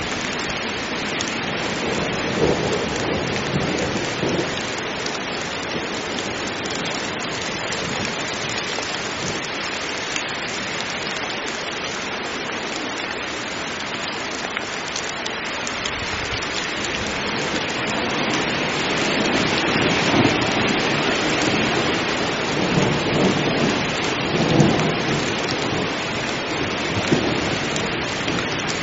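Heavy rain falling steadily, with rumbles of thunder swelling a couple of seconds in and again through the latter part.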